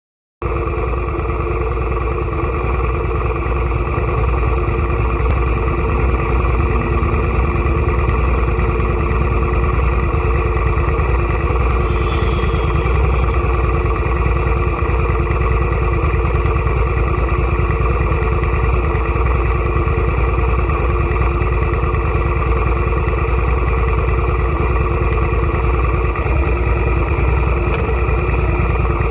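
Suzuki SV650 motorcycle's V-twin engine idling steadily, its pitch unchanging.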